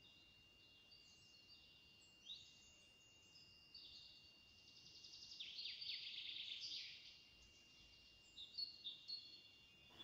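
Faint songbirds calling: a few short chirps, then a trill of quick downward-sweeping notes about halfway through, and a few short high notes near the end.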